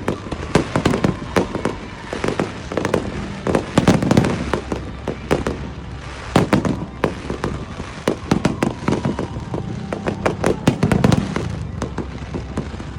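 Aerial fireworks going off in a dense, irregular barrage of bangs and crackles. Heavier booms come about 4, 6 and 11 seconds in.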